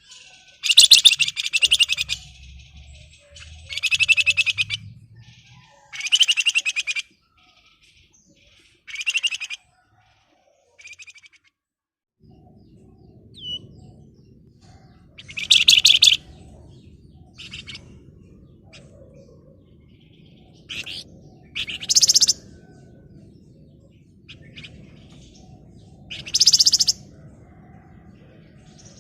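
A Flamboyan songbird singing in short, dense, shrill rattling bursts (the 'ngebren rapat' song), each lasting about half a second to a second and a half, with pauses of a second or more between them. A faint low hum comes in about halfway through.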